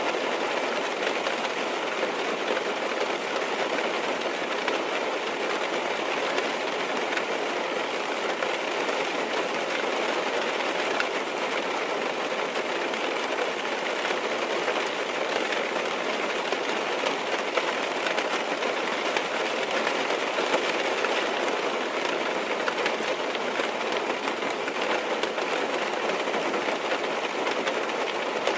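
Steady rain falling on a car's roof and windows, heard from inside the cabin as an even, dense patter.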